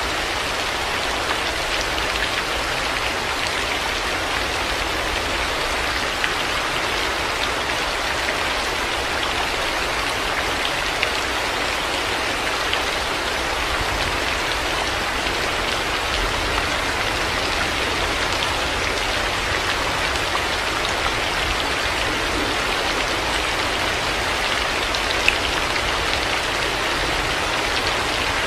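Heavy rain falling steadily, an even hiss with scattered drop ticks and a low rumble underneath.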